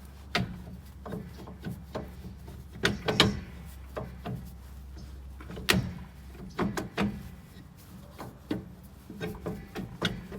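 Irregular clicks and knocks of hard parts and tools being handled, a dozen or more, some sharp and loud, over a steady low hum.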